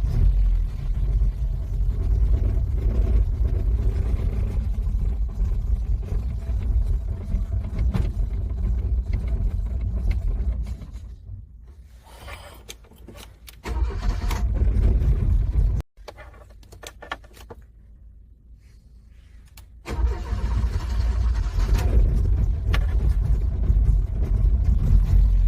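Car engine cranking in extreme cold, struggling to start. A long bout of cranking eases off about ten seconds in, comes back in a short burst that stops abruptly near the middle, and picks up again for the last five seconds or so.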